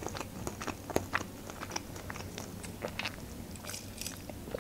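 Close-miked mouth sounds of eating: quiet chewing with soft wet clicks and smacks, then sipping a drink through a straw near the end.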